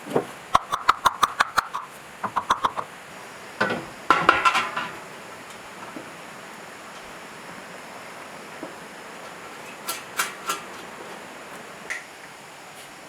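Metal struck against metal: a quick run of about eight ringing taps, a few more taps, then a short rattling clatter, and three light knocks later on.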